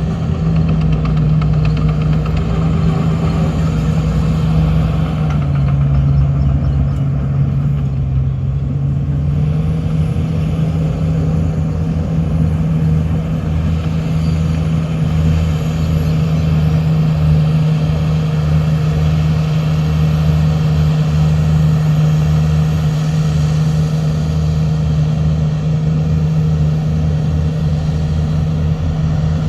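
Heavy diesel engine of earthmoving equipment running steadily. Its pitch drops for a few seconds about five seconds in, then comes back up.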